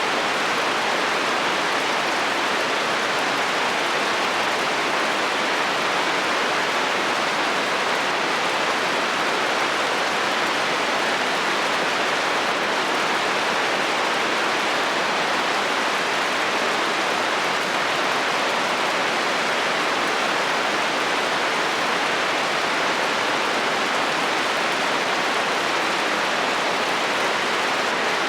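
Heavy rain falling steadily on a metal roof: an even, unbroken hiss with no thunder.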